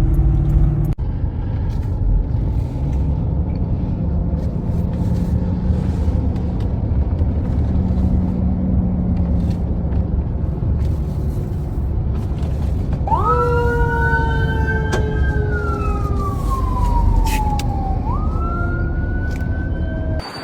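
Steady road rumble of a car driving, heard from inside the car. About two-thirds of the way through, an emergency vehicle's siren wails: a tone that rises sharply, falls slowly over several seconds, then jumps back up.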